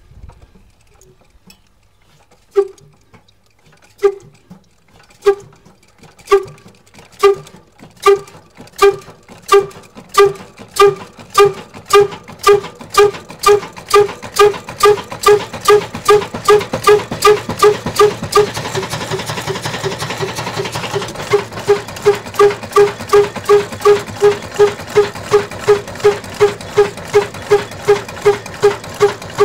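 Ruston Hornsby diesel engine starting: separate sharp exhaust beats begin about two and a half seconds in, slowly at first, then come faster and faster until a little over two a second, and keep on evenly. A steady rushing noise joins behind the beats in the second half.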